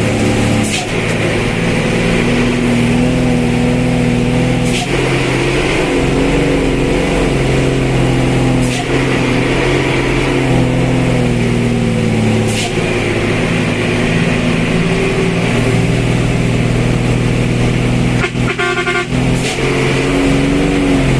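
Motor vehicle engine running steadily under load, its pitch drifting up and down, with a few sharp knocks. A short horn honk sounds near the end.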